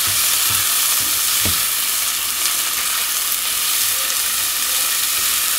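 Chopped onion sizzling in hot pork lard in a pan, a steady sizzle that begins abruptly, with a few soft knocks in the first second and a half.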